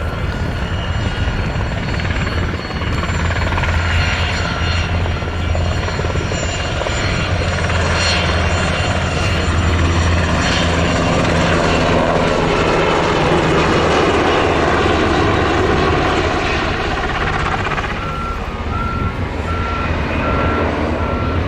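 Helicopter flying, its rotor and turbine engines making a loud, steady low drone with a thin high whine on top.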